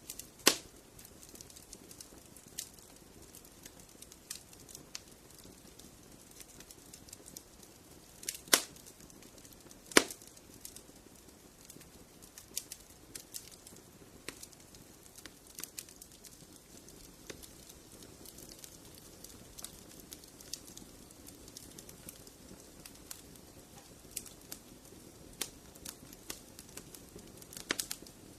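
Wood fire in a fireplace crackling: a low steady hiss with irregular sharp pops and snaps, the loudest three about half a second, eight and a half and ten seconds in.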